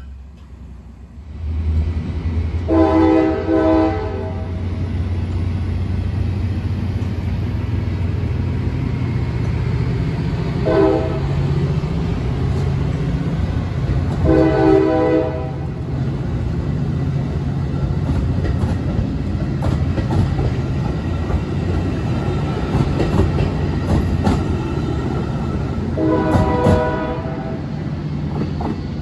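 Metra commuter train pulling out of the station: a steady low diesel rumble with wheels clacking over the rails, and a multi-note train air horn sounding four times, the second blast short.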